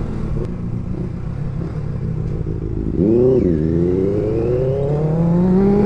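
Motorcycle engine accelerating over steady road noise: about three seconds in its pitch dips briefly, then climbs steadily as it picks up speed.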